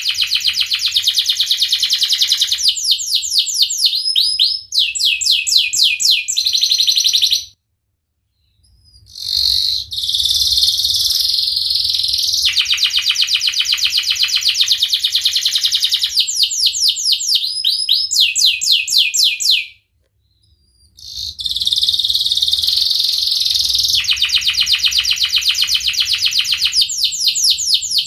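Domestic canary singing a long, loud song of rapid trills and rolling phrases with quick chirps between them, high-pitched throughout. The song breaks off twice for a second or so, about a third of the way in and again past two-thirds.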